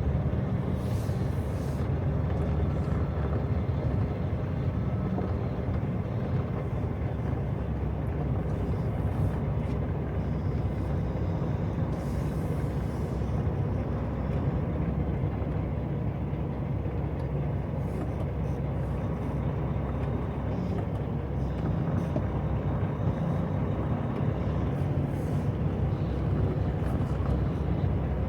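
Semi truck's diesel engine running steadily at low speed, heard from inside the cab, as the rig creeps through a tight turn.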